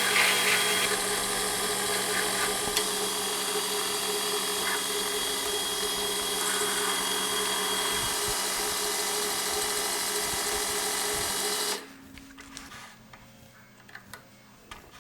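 Lathe running steadily while turning a metal handle, with a brighter cutting sound in the first second. The running stops suddenly about twelve seconds in, leaving a few faint clicks.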